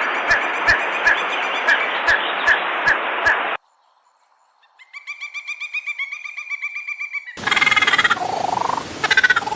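Animal calls in three short clips cut together. First comes a dense chorus with a sharp call repeating about two and a half times a second, which stops abruptly. After a second of silence there is a fast trill of rapidly repeated notes, then near the end a different set of louder calls.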